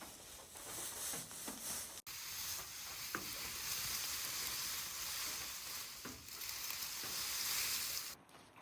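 A steady sizzling hiss begins suddenly about two seconds in and cuts off abruptly near the end, with a few faint soft knocks within it.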